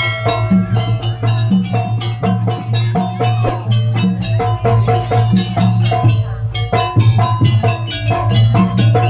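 Live jaranan accompaniment of Javanese drums and tuned metal percussion playing a fast, even rhythm of ringing struck notes over a steady low drone.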